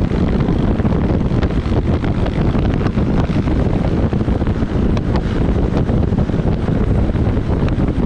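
Wind buffeting the microphone of a riding motorbike, a steady low rumble over the bike's engine and road noise.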